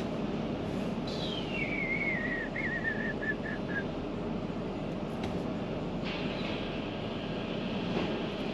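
Steady low rumble of a van's engine and road noise heard inside the cabin. About a second in, a high whistle falls in pitch and breaks into a few short chirps. About six seconds in, a steady hiss joins.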